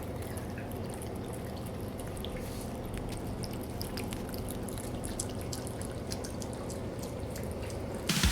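A cat eating, close up: a run of small, irregular wet clicks and smacks of its mouth and tongue over a steady low hum, with a brief louder burst near the end.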